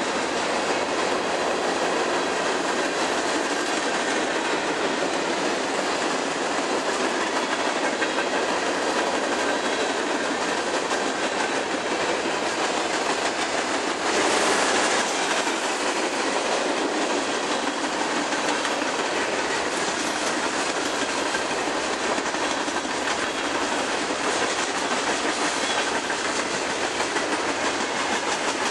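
Freight cars of a long mixed freight train rolling past: a steady clatter of wheels on rail joints, briefly louder about halfway through.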